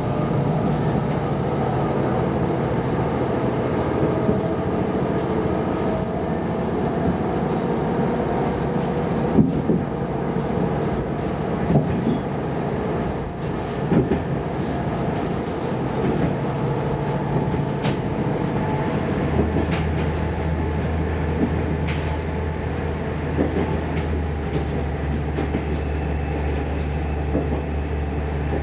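Diesel railcar (KiHa 110 series) running along the line, heard from inside the cabin: a steady engine and running-gear drone with occasional knocks of the wheels over rail joints. About two-thirds of the way through, a deeper engine hum comes in and holds.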